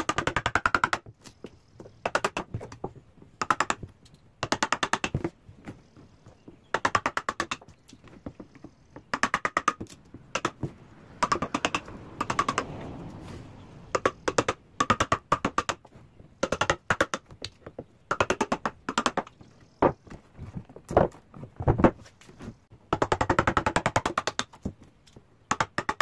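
Hammering on a wood piece in repeated bursts of rapid strikes, each burst lasting about a second, with short pauses between.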